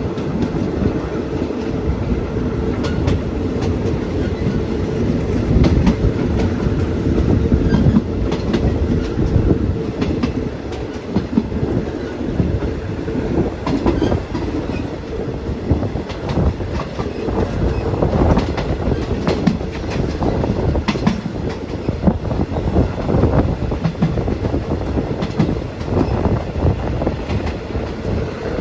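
Metre-gauge passenger train running at speed, heard from aboard a carriage: a steady heavy rumble with the wheels clattering irregularly over rail joints.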